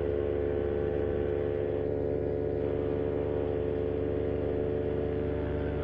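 Vittorazi Moster 185 single-cylinder two-stroke paramotor engine and propeller running at a steady cruise throttle, an even drone.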